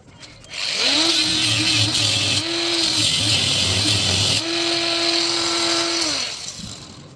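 Handheld power tool running for about six seconds: it spins up about half a second in and winds down near the end, its note wavering in the middle as it works.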